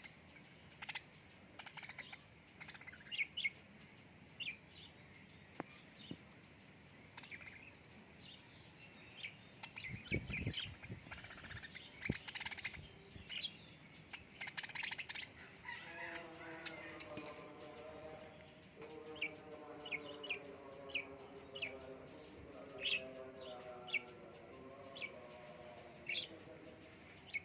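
Small birds chirping: short, high chirps repeated through the clip, coming about once a second in the second half. A dull thump sounds about ten seconds in, and a faint low hum joins under the chirps in the second half.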